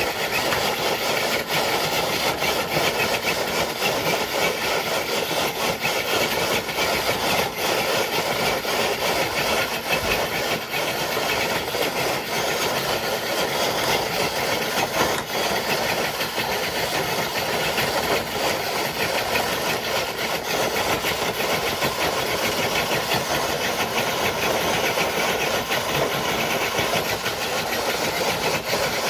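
Electric motor and geared drivetrain of a scale RC crawler truck running steadily under load as it drags a dead-weight sled loaded with 12 bricks.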